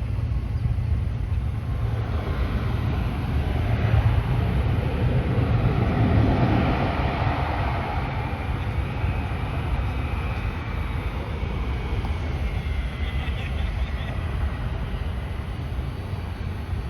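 Twin-turboprop airliner on landing approach passing by. Its engine noise swells to a peak about six seconds in and then fades, leaving a faint high whine, over a steady wind rumble on the microphone.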